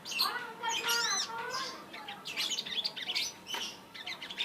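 Brown-throated sunbird (sogok ontong) singing: a rapid run of high chirps and whistled notes that rise and fall, with a brief pause about three and a half seconds in.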